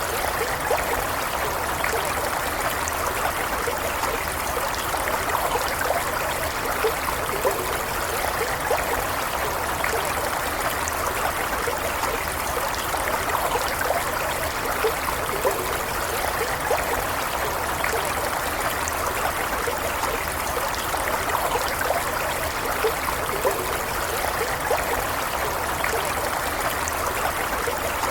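Stream water flowing steadily, with small splashes and gurgles over a constant rush.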